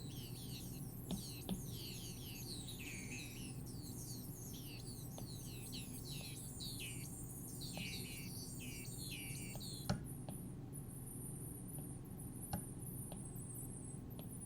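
Synthesized bird-like chirps from an iPad Minimoog synthesizer app: quick falling chirps in rapid runs, thinning to higher, fainter twitters after about ten seconds, over a steady low hum. A few sharp clicks cut through, the loudest about ten seconds in.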